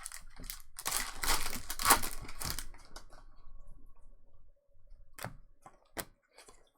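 A trading card pack's wrapper being torn open and crinkled, a loud rasping tear lasting about two seconds. It is followed by a few sharp clicks near the end.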